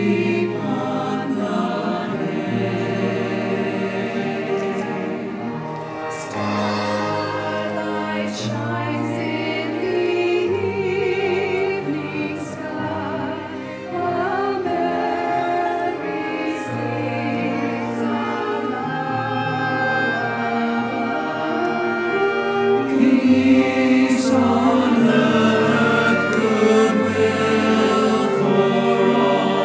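Choir singing with orchestral accompaniment, over held bass notes that move in steps.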